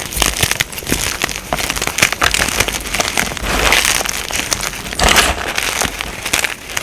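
Crunchy powder blocks with glitter being crushed and crumbled, a dense run of crackling and crunching with louder crunches now and then.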